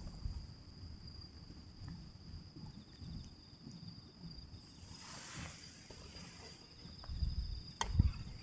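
Insects trilling steadily in one high, even tone, over low irregular rumbling, with a sharp click near the end.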